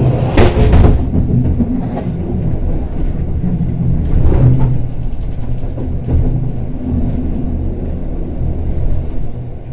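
Bernina Express train running on the track, a steady low rumble from the wheels and carriage, with a loud rattling burst about half a second in and a smaller one around the middle.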